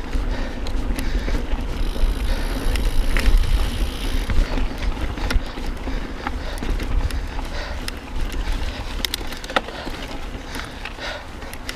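Mountain bike being ridden over a rough trail: tyres running over wet gravel and stones, with scattered clicks and rattles over a low rumble.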